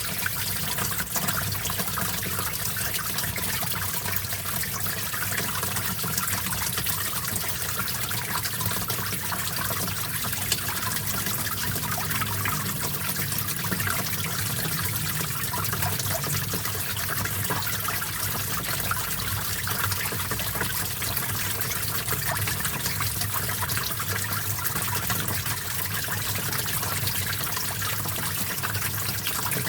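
Small stream flowing and trickling, a steady, even babble of running water.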